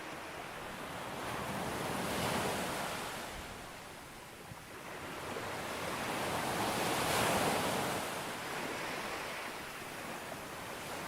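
Sea waves breaking on a beach: the surf swells and washes in twice, peaking about two seconds in and again about seven seconds in, with a steady hiss of surf between.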